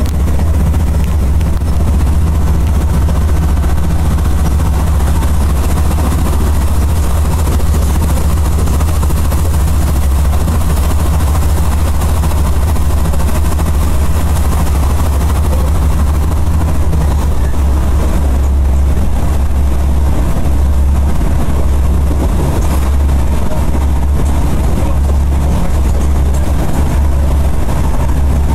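Steady loud rumble of a moving passenger train, heard from inside the carriage, with a low droning hum. A higher note in the hum drops away about two-thirds of the way through.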